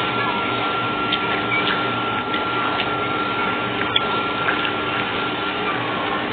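Faint crunches of a crispy seaweed snack being bitten and chewed, over a steady machine-like noise with a constant high whine.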